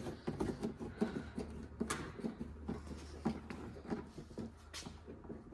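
Light, irregular clicks and taps of a screw being turned in by hand and a plastic trim panel being handled, over a faint steady low hum.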